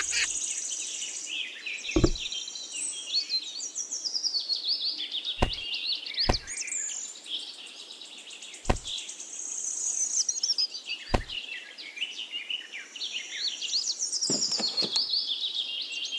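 Many small birds chirping and twittering steadily, with five sharp taps or knocks spaced a few seconds apart.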